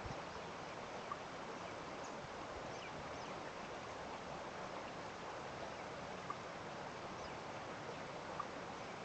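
Steady hiss of running water, with faint, brief high bird chirps and a few soft taps scattered through.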